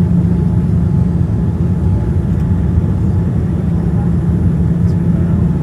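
Cabin noise inside a Boeing 787-9 Dreamliner on its arrival: a steady, loud low rumble of engines and airflow with an even hum underneath.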